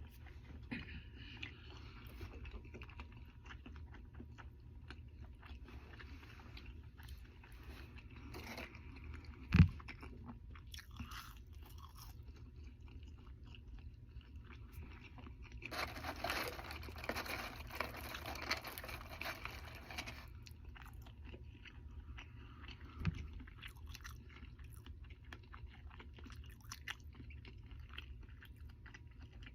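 A person chewing a mouthful of Double Big Mac close to the microphone, with small wet mouth clicks. A single sharp thump about a third of the way in, and a stretch of louder crackly noise lasting about four seconds a little past the middle.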